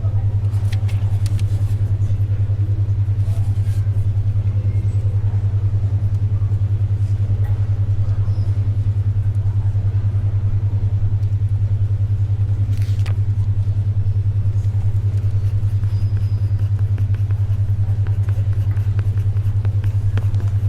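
Steady low hum pulsing evenly about ten times a second: a 10.2 Hz alpha brainwave tone. Under it, faint library ambience with a few brief paper rustles and pencil scratches.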